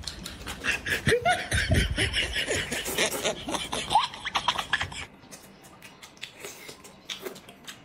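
Loud close-up chewing of braised pork, wet smacking and slurping mouth noises with a couple of short rising vocal sounds. The noise drops to quieter scattered clicks about five seconds in.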